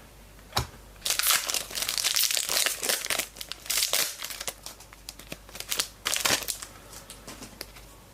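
A Select Footy Stars trading card pack being torn open by hand, its wrapper crinkling in bursts for a few seconds after a short sharp click.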